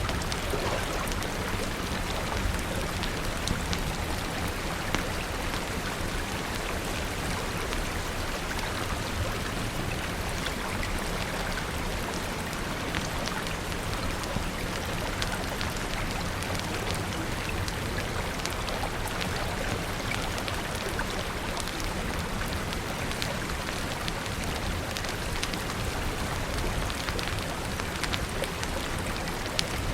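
Steady rain falling, an even hiss dotted throughout with many small sharp ticks and crackles.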